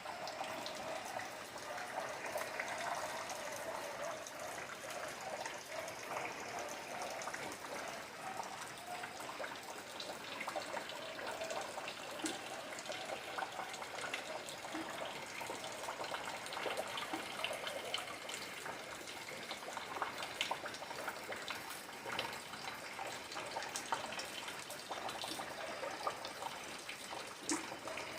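Rain with running rainwater trickling steadily, stronger over the first ten seconds. Many separate drops tick and splash throughout.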